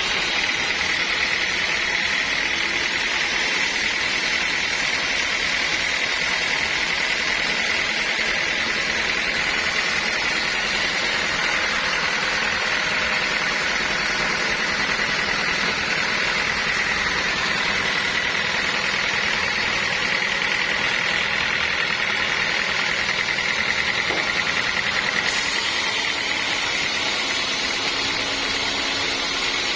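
Sawmill saw running steadily through a large log, a continuous high whine over machine noise.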